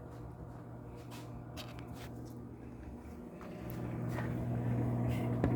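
Microwave oven running with a steady electrical hum that grows louder about three and a half seconds in, with a few faint clicks and a sharp click at the end.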